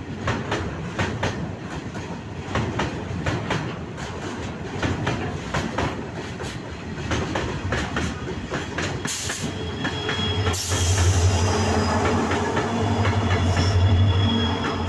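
Heavily loaded freight train carrying oxygen tanker trucks rolling past, its wheels clicking steadily over the rail joints. From about ten seconds in, a louder low steady drone with a high hiss joins the clatter.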